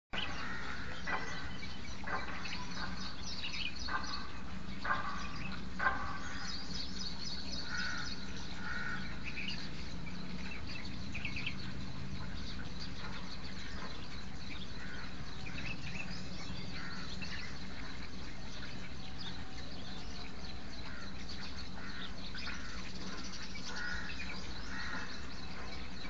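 Birds calling: a run of short calls about once a second in the first six seconds, then scattered chirps and brief calls.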